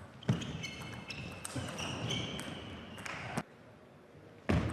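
Table tennis rally in a hall: the ball clicks off rackets and table several times in quick succession, with short squeaks of players' shoes on the floor. After a short lull, a louder thud comes near the end.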